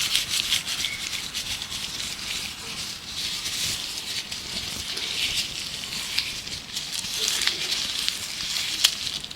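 Gloved hands rubbing and crinkling close to the microphone: a continuous crackly rustling full of small clicks, swelling and easing in waves.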